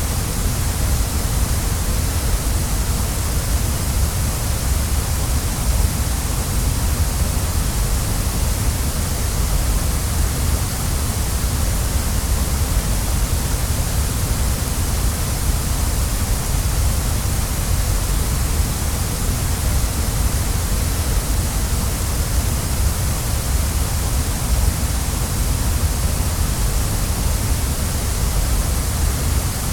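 Waterfall rushing steadily: an even, unchanging wash of falling water with a deep rumble underneath and a bright hiss on top.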